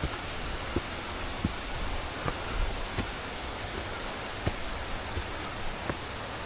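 Steady rushing of water, with footsteps on the path about one and a half times a second.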